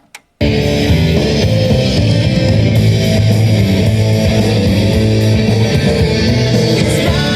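Rock music with electric guitar played back on a Kenwood UD-9 hi-fi system, starting abruptly about half a second in after a short silence broken by a few faint clicks.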